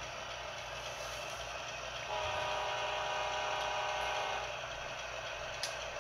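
GE ES44 diesel locomotive sound: the engine runs steadily, and about two seconds in a multi-note horn sounds one blast of a little over two seconds.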